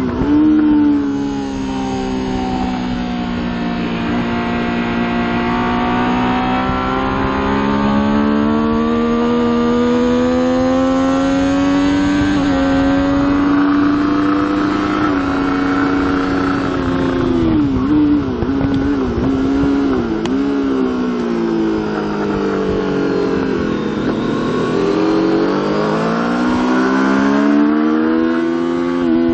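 Triumph Daytona 675's three-cylinder engine at racing revs, heard on board. The pitch climbs and holds high for a long pull, then dips several times in quick succession as it is shifted down, falls lower, and rises again as the bike accelerates near the end.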